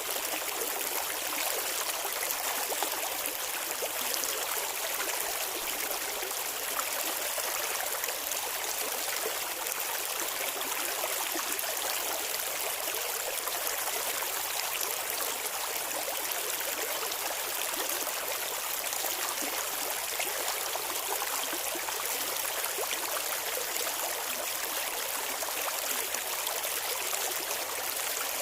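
Shallow clear stream running over rocks, a steady babbling and trickling of flowing water.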